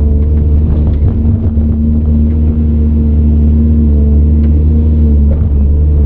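CAT 395 excavator's diesel engine running steadily under load, a deep low drone with a steady higher whine over it and a few faint knocks.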